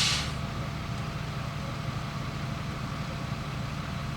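Heavy engine idling steadily, with a short, sharp hiss right at the start.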